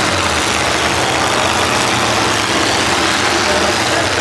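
Several demolition derby cars' engines running loud and rough through open exhaust stacks, a continuous dense engine noise.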